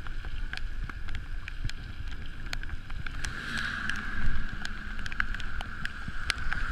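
Wind buffeting the microphone and the rumble of a bicycle rolling downhill on pavement, with a steady hiss and scattered small clicks and rattles.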